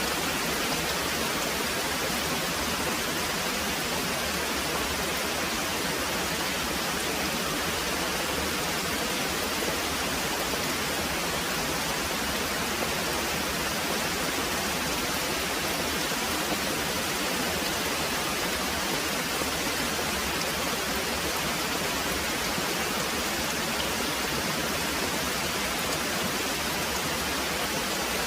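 Very heavy rain pouring steadily, a dense, even hiss with no break or change.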